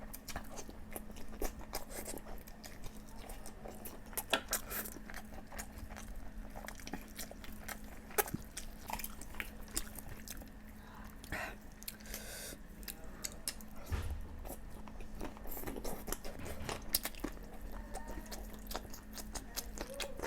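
Close-miked chewing of a person eating boiled eggs and chicken curry, with irregular wet clicks and smacks of the mouth.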